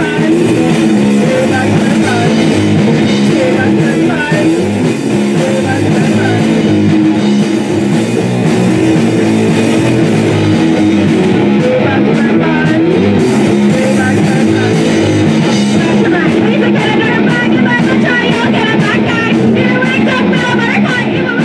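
Live rock band playing a song: electric guitar and drum kit, loud and steady, with no break.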